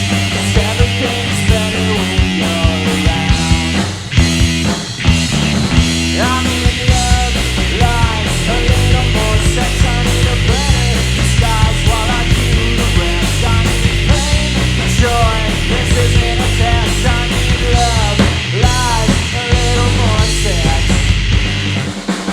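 A loud live rock trio of electric guitar, bass guitar and drum kit playing an instrumental passage, the guitar playing lead lines with bent, gliding notes over the bass and drums.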